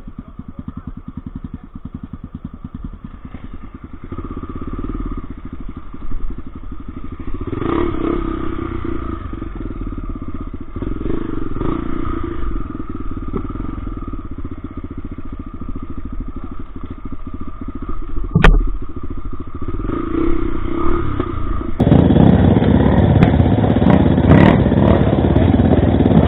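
Off-road motorcycle engine running while riding a dirt trail, its sound rising and falling with the throttle. A single sharp knock comes about eighteen seconds in, and the engine gets noticeably louder near the end.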